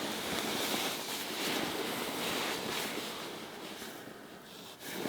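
Lakeshore ambience: a steady rushing noise of wind and small waves, swelling and easing, a little quieter near the end.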